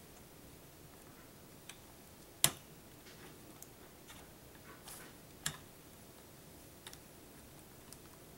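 A few scattered clicks and knocks of hard computer parts being handled and fitted during a PC build, the loudest a sharp knock about two and a half seconds in and another about three seconds later.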